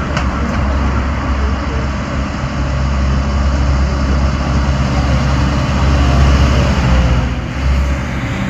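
Tractor engines running with a steady low drone.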